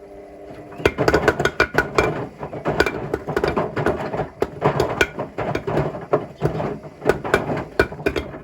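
Bricks tumbling in the drum of a Hotpoint Smart Tech WMFUG742 washing machine, banging hard and irregularly, several knocks a second. A steady hum comes first, and the banging starts about a second in and stops suddenly near the end.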